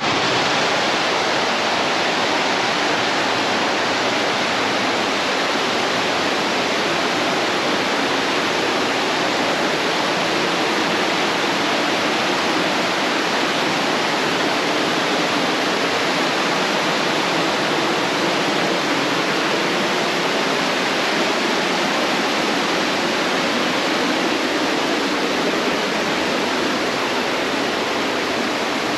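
Creek water rushing over rocks, a loud steady rush that starts suddenly.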